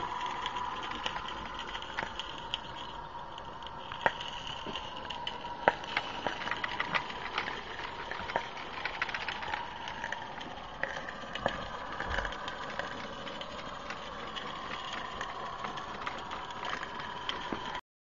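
Accucraft Shay live-steam model locomotive running along the garden railway track: a steady mechanical rattle and hum with irregular sharp clicks, cutting off suddenly near the end.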